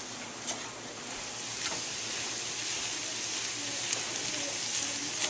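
Ground turkey and diced onion sizzling steadily in a frying pan as they are stirred with a spatula, with a few small ticks.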